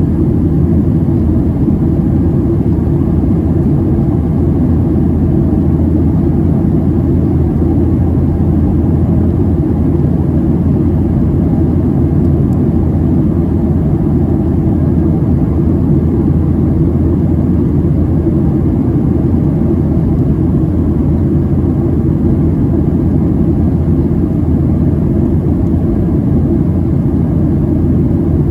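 Steady cabin noise of a Boeing 737-700 in its climb, heard from inside the passenger cabin: a loud, even low roar of its CFM56-7B turbofan engines and rushing air.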